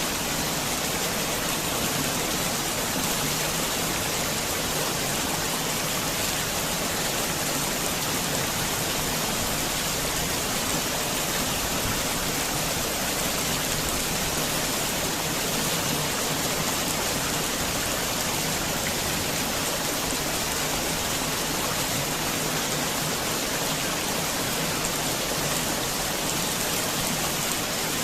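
Heavy rain falling steadily, a dense even hiss of drops with no breaks or single distinct sounds.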